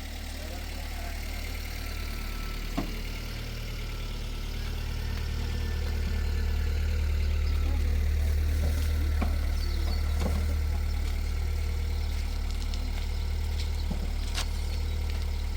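An engine running steadily with a low hum that grows louder over the first several seconds and then holds, with a sharp knock about three seconds in and a few fainter clicks later.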